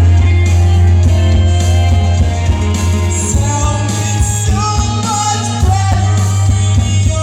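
Live rock band playing with a singer's voice over it, with a heavy steady bass.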